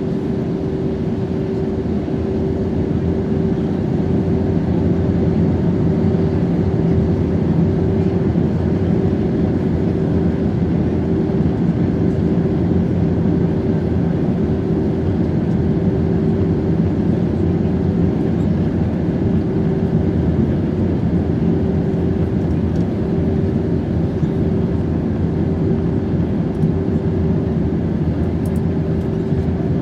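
Airbus A320neo in flight, heard from inside the passenger cabin: a steady rumble of engines and rushing air with a constant low hum running through it.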